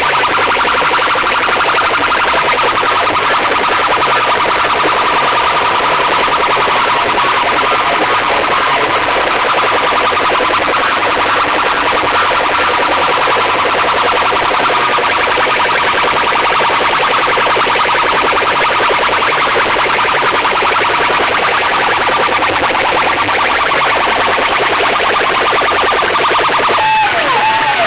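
Street DJ sound-box rigs blasting loud, distorted electronic music, with a steady high tone running through it. Near the end comes a quick series of falling, siren-like electronic tones.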